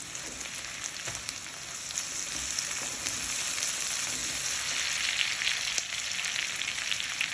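Vegetables sizzling as they stir-fry in hot oil in a wide kadai, with small crackles and occasional faint knocks of stirring, the sizzle growing a little louder about two seconds in as freshly added red capsicum strips meet the oil.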